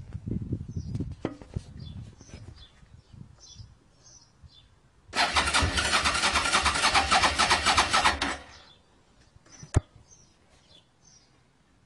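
Motorcycle engine being cranked on the starter for about three seconds with a fast, even pulsing, and it does not catch. Some low rumbling comes earlier, and a single sharp click follows the cranking.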